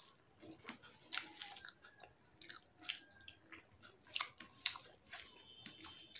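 A person chewing a mouthful of rice and soybean-chunk curry, with short wet smacks and clicks at irregular intervals, while fingers mix rice on a steel plate.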